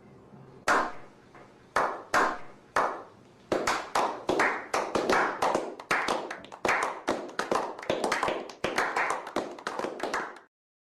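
Hand clapping: a slow clap with single, spaced claps that echo, picking up from about a third of the way in into quicker, overlapping claps. It stops just before the end.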